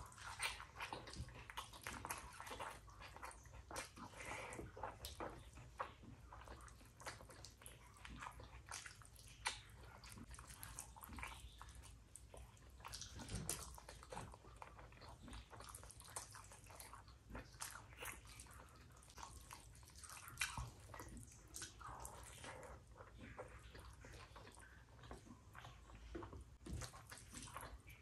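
Quiet close-up eating sounds: wet chewing and lip smacks with soft squishing of rice and curry, a steady run of small irregular clicks.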